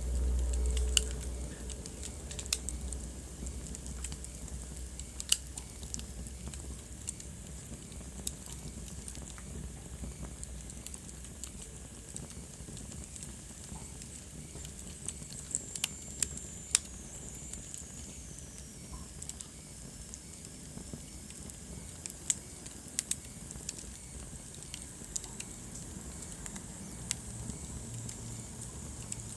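Wood fire crackling in a fireplace: scattered sharp pops and snaps over the low steady rumble of the burning fire. About halfway through, a faint high whistle slides down in pitch.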